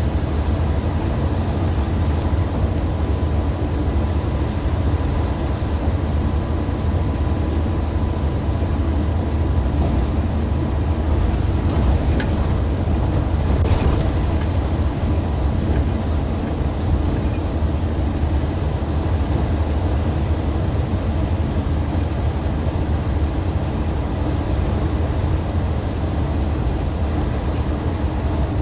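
Hyundai D6CC Powertec 380 straight-six diesel of a Hyundai Universe Comfort bus running steadily, a constant low drone without revving. A few short clicks come midway.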